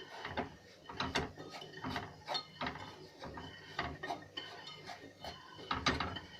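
A spoon scraping and knocking against a cooking pot during stirring, in a string of short irregular strokes about every half second.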